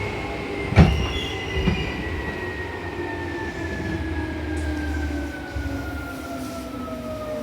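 Seibu New 2000 series electric train heard from inside the car, its motor whine falling steadily in pitch as it brakes into a station, over wheel-on-rail rumble. Two sharp knocks come about one and two seconds in.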